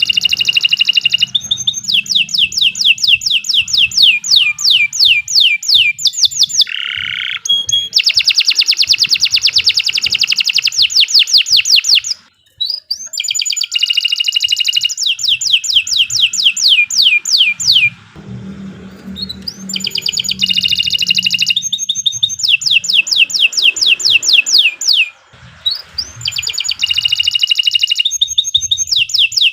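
Domestic canary singing loud, long song phrases of fast trills, each made of rapidly repeated downward-sweeping whistled notes, with brief pauses between phrases.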